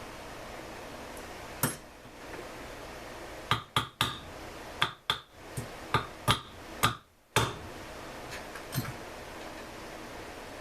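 Small hard objects being handled, making a run of sharp clicks and knocks over a steady hiss. One click comes early, then about ten come close together in the middle, and one more follows near the end.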